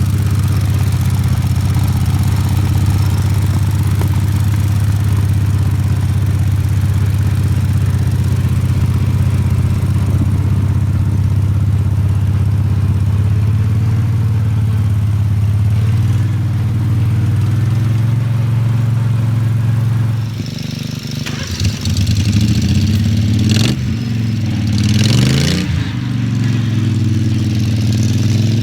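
Small garden tractor engine running steadily under way. About twenty seconds in it dips briefly, then revs up and down.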